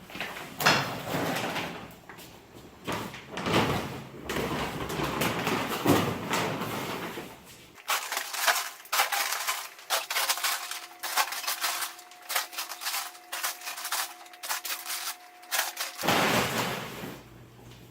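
Heavy bags of salt being handled onto a lift table's roller platform: irregular dull knocks, shuffling and sliding scrapes. About halfway through, the sound turns to sharper clicks over a faint steady hum.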